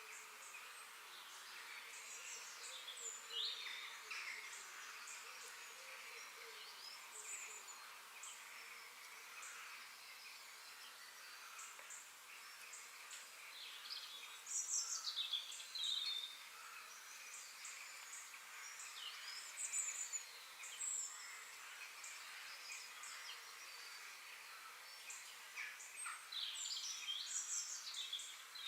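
Birds chirping and calling, with many short whistles and chirps scattered throughout and louder clusters about halfway through and near the end, over a steady high hiss.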